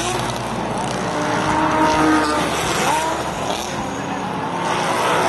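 Sports-racing car engines running at speed, several pitches rising and falling at once over tyre and track noise.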